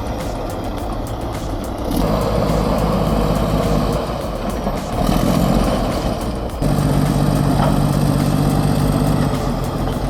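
Caterpillar D8H bulldozer's diesel engine working hard while ripping rock, its note stepping up and down several times as the load changes, and running loudest and steadiest in the last few seconds.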